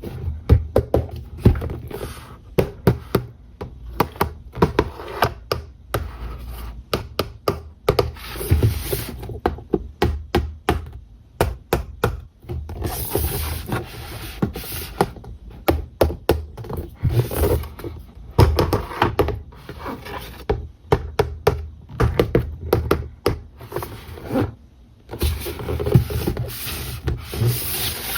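Hands handling a toy remote-control car and its packaging: many irregular light taps, clicks and knocks of plastic and cardboard, with several bursts of rustling wrapping.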